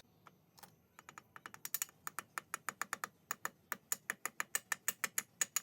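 Rapid light taps, about six a second, driving an oil seal into a motorcycle engine's crankcase until it sits flush; the taps start sparse and grow quicker and louder.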